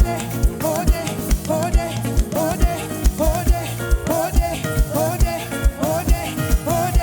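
A praise band playing an upbeat instrumental groove, with a steady kick-drum beat about two to three a second under a short melodic figure repeated over and over.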